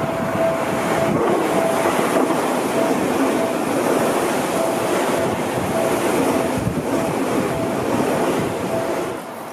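Seibu 001 series "Laview" electric express train passing close by, with a steady rumble and hiss of its wheels on the rails that drops away near the end.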